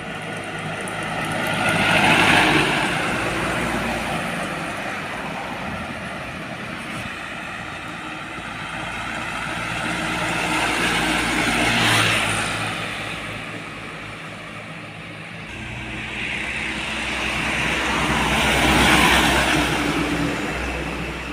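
Heavy vehicles on a road passing one after another: three pass-bys of engine and tyre noise, each swelling and then fading, the loudest about two seconds in, about twelve seconds in and near the end.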